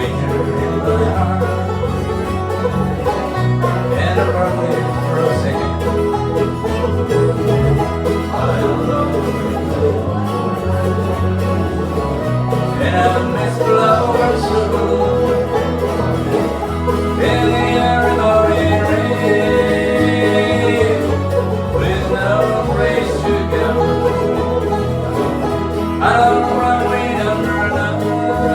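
Bluegrass band playing an instrumental passage, banjo and acoustic guitar to the fore, with a sustained lead melody line coming in a little past the middle.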